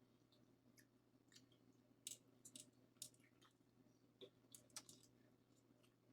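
Near silence broken by a handful of faint, sharp clicks and small wet crackles, most of them between about two and five seconds in: quiet eating and handling of shelled seafood.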